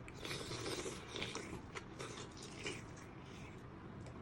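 Close-up mouth sounds of chewing snail meat: irregular wet smacks and crunchy clicks, busiest in the first three seconds. The meat is crunchy and chewy.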